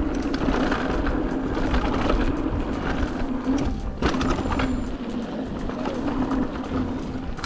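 Merida eONE-SIXTY electric mountain bike riding over a rough dirt trail: tyre rumble and frequent rattles and clicks from the bike, over a steady motor hum that drops out briefly about four seconds in.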